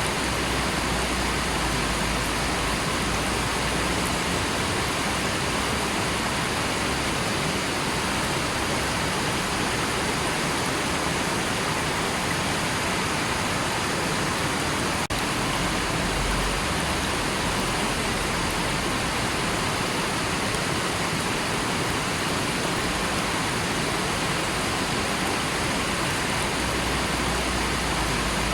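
River water rushing steadily, an even unbroken noise, with a momentary dropout about halfway through.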